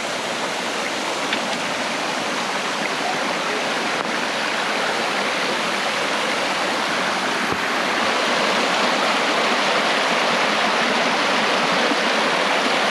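Water rushing down a rocky canyon creek bed, a steady rush that grows gradually louder. It is runoff just starting to flow down from higher up the canyon.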